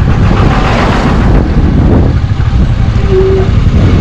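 Motorcycle running on the move with heavy wind rumble on the microphone, a loud steady roar. A brief single tone sounds about three seconds in.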